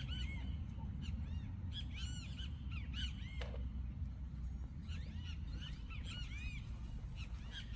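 Birds calling: short, arched whistled notes in clusters of a few at a time, repeating every second or two, over a steady low rumble.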